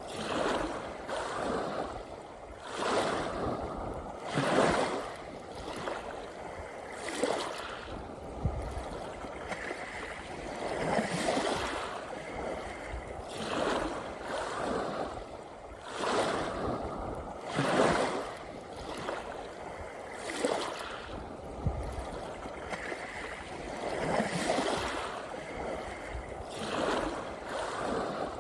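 Small sea waves breaking and washing up a beach, a new surge every two to three seconds.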